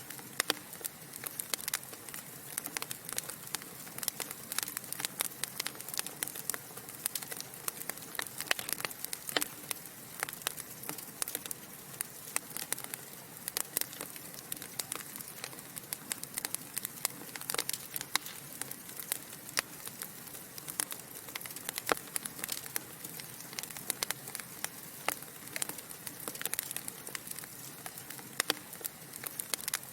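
Wood fire burning in a fireplace: a steady hiss with dense, irregular crackles and pops from the logs.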